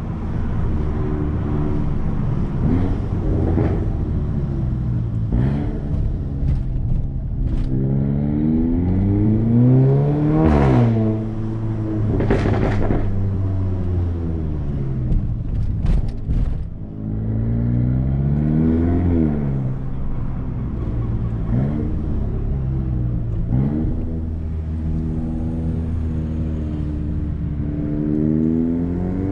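Volkswagen Golf GTI TCR's turbocharged 2.0-litre four-cylinder with a 3-inch Milltek downpipe and no particulate filter, heard from inside the cabin while driving in town. The revs climb and drop several times as the car pulls through the gears, with a few short cracks in between.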